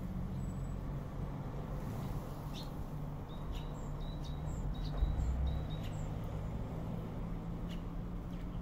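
Small birds giving short, high chirps in a quick series for a few seconds, then a couple more near the end, over a steady low outdoor rumble, with a brief low bump about five seconds in.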